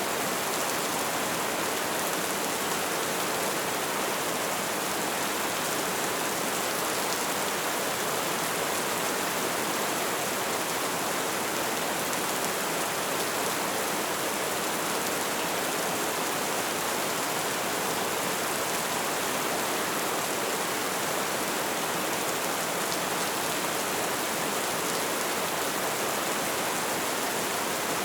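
Light rain falling steadily: an even hiss of rain with faint, scattered drop ticks.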